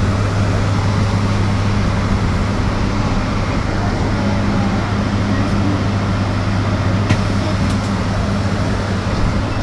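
Riding inside an electric bus in motion: a steady road and tyre noise with a low, constant electrical hum underneath.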